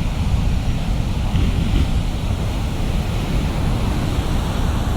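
Ocean surf breaking and washing on a shore break: a steady, unbroken roar of water with a heavy low rumble.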